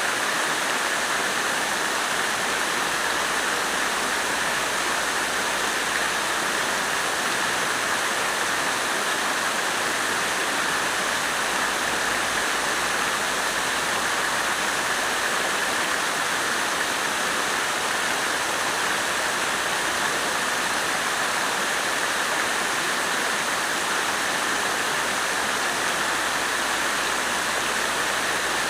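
Water from a fountain splashing steadily into its basin, an even, unchanging rush of falling water.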